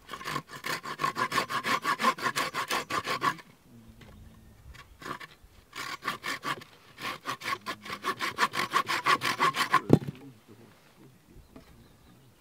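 Hand saw cutting wood in fast back-and-forth strokes, in two bouts with a pause of a couple of seconds between them. A single thud ends the second bout.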